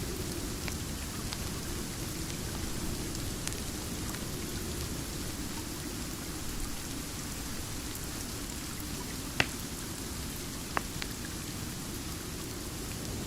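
Steady rain falling, an even rushing hiss with scattered faint drop ticks. Two sharp pops stand out, about nine and eleven seconds in.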